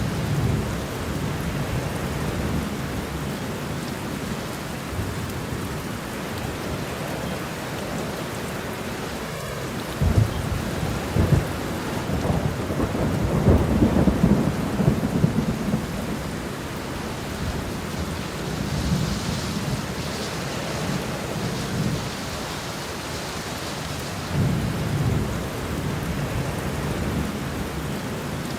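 Steady rain with rolling thunder rumbling underneath, building to its loudest about halfway through and swelling again near the end.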